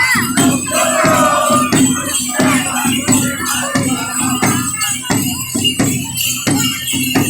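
Congada percussion: drums keeping a steady beat of about two strokes a second under jingling tambourines and rattles, with voices singing over it in the first half.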